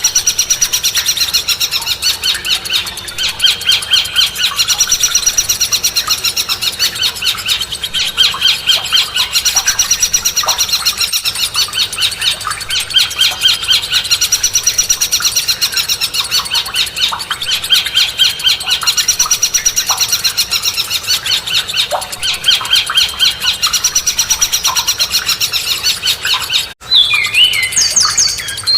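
Songbird singing rapid, chattering trilled phrases that repeat about every two seconds. Near the end the song breaks off briefly and a different song of falling whistled notes begins.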